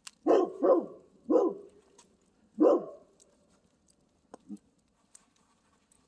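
A dog barking: three quick barks, then a fourth a little over a second later.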